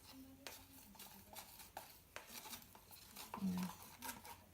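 Faint, scattered clicks and taps of plastic paint cups and a stir stick being handled while acrylic paint is mixed and poured onto a canvas.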